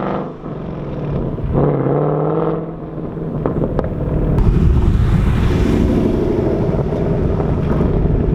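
2019 Mustang GT's 5.0 V8 with active exhaust valves open, resonator delete and H-pipe, accelerating hard. The pitch climbs, drops sharply about half a second in, climbs again for about a second, then gives way to a steady low rumble with rushing noise that grows louder from about halfway in.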